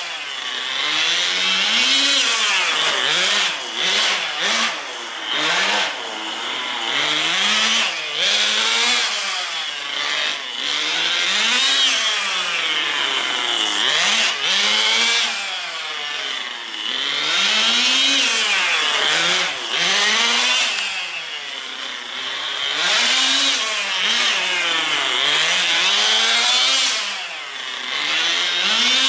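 Tamiya TGS 1/10 nitro RC car's small glow engine running hard, its high buzzing note rising and falling over and over as the car is throttled up and eased off, about once every one to two seconds.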